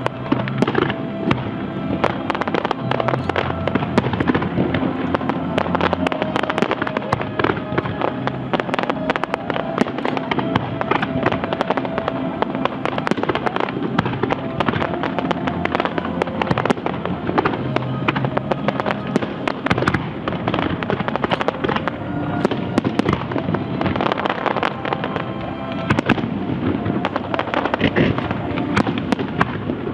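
Aerial fireworks display: a continuous barrage of shell bursts, bangs and crackles, with music playing underneath.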